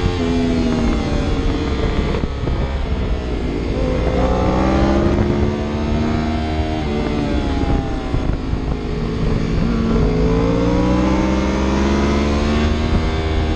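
Onboard engine sound of a vehicle being driven hard, with its engine note repeatedly climbing under acceleration and dropping back at shifts or off the throttle. A steady low rumble of wind and road noise runs underneath.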